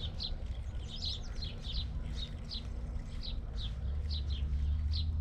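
Small songbird calling with short, high, falling chirps, about two or three a second, over a low steady rumble.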